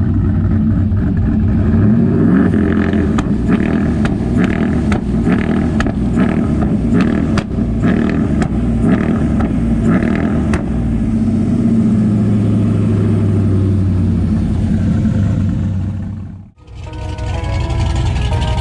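Boosted truck engine held against a two-step launch limiter, with a rapid string of sharp pops and bangs, about two a second, as the limiter cuts ignition. After about eleven seconds the bangs stop and the engine runs steadily. Music comes in near the end.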